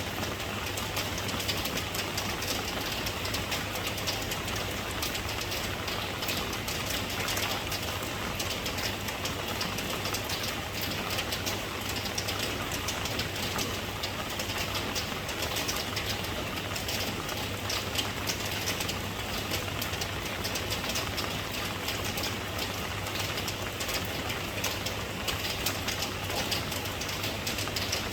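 Steady rain falling, an even hiss full of fine drop ticks, with a low steady hum underneath.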